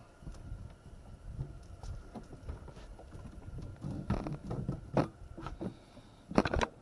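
Irregular knocks, scrapes and light pattering of handling in a boat, with a sharper knock about five seconds in and a quick cluster of louder knocks near the end.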